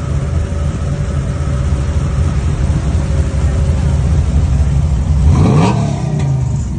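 A box Chevy's modified engine idling with a deep rumble, with one quick rev about five seconds in that climbs and drops back to idle.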